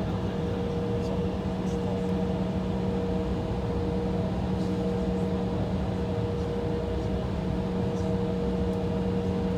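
Steady cabin drone inside an Embraer E175 waiting on the taxiway, its engines idling and air system running: an even hum with a few steady tones through it.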